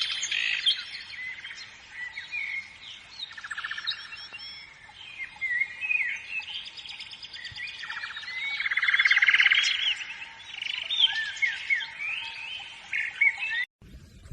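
Several songbirds chirping and singing at once: many quick whistled notes that sweep up and down, with two louder rapid trills, one about a quarter of the way in and one past the middle. The birdsong cuts off abruptly near the end.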